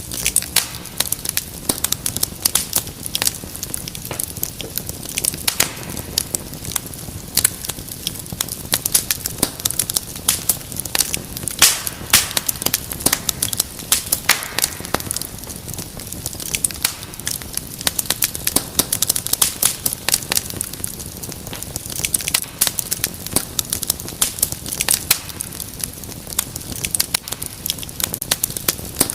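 Wood fire burning in a fireplace, crackling and popping irregularly and continuously over a soft steady hiss, with a few louder pops around twelve and fifteen seconds in.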